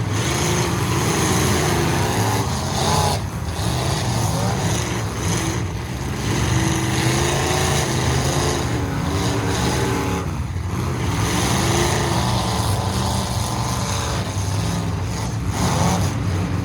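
Full-size demolition derby trucks' engines running and revving, with pitch rising and falling.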